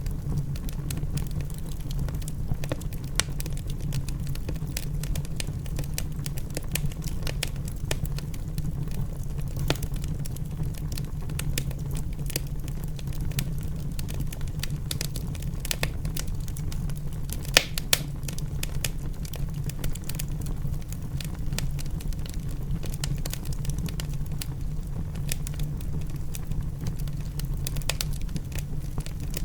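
Wood fire crackling in a fireplace: dense snaps and pops over a steady low rumble, with one sharper pop a little past halfway.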